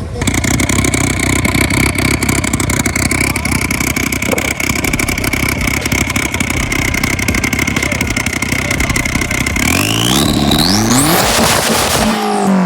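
Car engine with a loud aftermarket exhaust held at high revs for about nine seconds, with a steady high whine over the rapid exhaust pulses. Near the end the revs climb sharply, then drop away.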